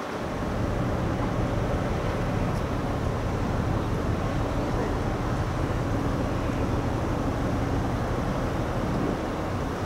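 Steady low engine drone of a large ship's diesel engines, holding one even pitch with a constant hum underneath, picking up slightly about half a second in.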